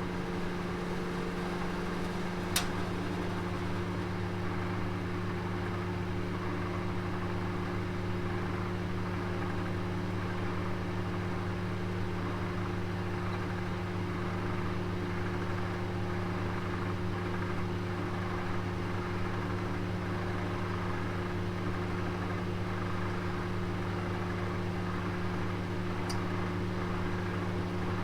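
Oven running with a steady low hum and fan-like whir while cooking a roast, with one sharp tick about two and a half seconds in and a faint one near the end.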